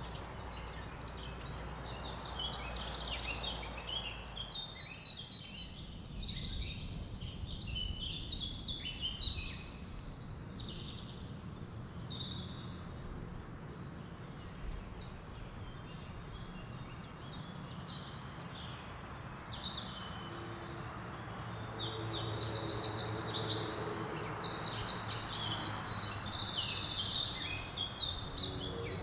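Songbirds singing and chirping in forest, with louder, fast trilled phrases near the end.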